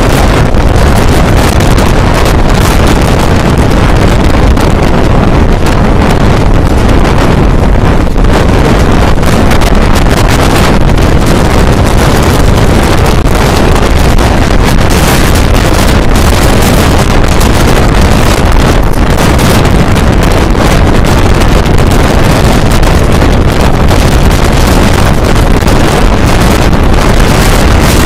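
Wind buffeting the microphone at the open window of a moving Indian Railways express train. Under it is the train's steady running noise on the track.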